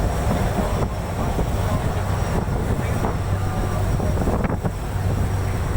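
A boat's engine running with a steady low hum, with wind buffeting the microphone.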